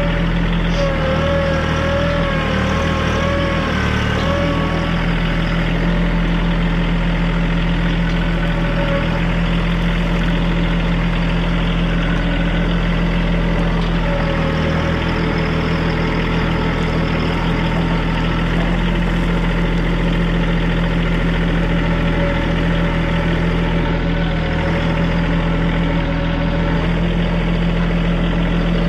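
TYM compact tractor's diesel engine running steadily under light working load, with a wavering whine that rises and falls in the first few seconds and comes back briefly about halfway through.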